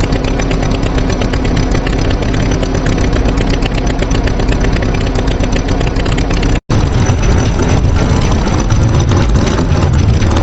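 Tractor engine running steadily with a rapid, even beat. It cuts out for an instant about two-thirds of the way through, then carries on.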